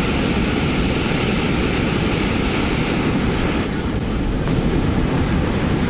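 A river in spate rushing past: a loud, steady rush of floodwater, heavy in the low end.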